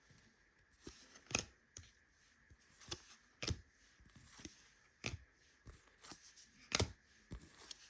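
Trading cards being flicked one at a time through a stack in the hand. Each card makes a short, sharp snap or swish every second or two.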